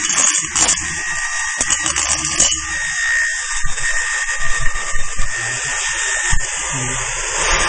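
HB3000+ welding stress relief machine's handheld treatment tool running with a steady high buzzing hiss. It goes choppy for the first couple of seconds, then runs evenly with a faint high whine.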